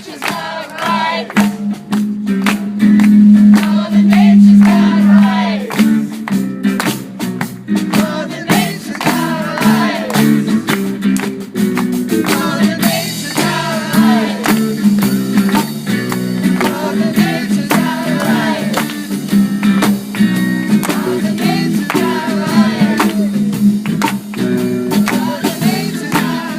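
Live band music with voices singing over a strummed, rhythmic accompaniment.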